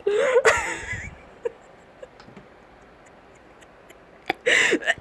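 A person laughing breathlessly: a gasping burst at the start and another near the end, with faint ticks and a single click in the quiet between.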